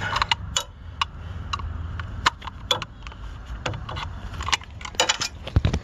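Irregular clicks and knocks of tools and metal parts being handled while working on an air-conditioner's outdoor unit, with a few louder knocks near the end, over a low steady rumble.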